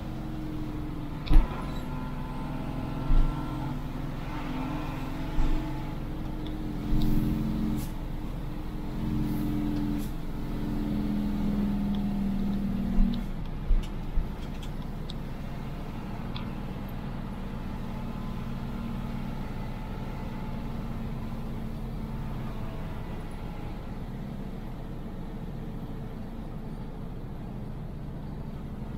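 Car engine running while driving downhill, its higher note dropping away about halfway through to a steadier lower hum. Several short sharp knocks or rattles come through in the first half.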